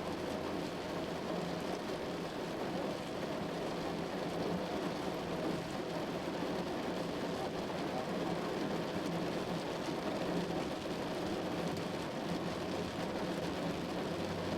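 Heavy rain falling steadily on a moving car, with a low steady hum from the car underneath.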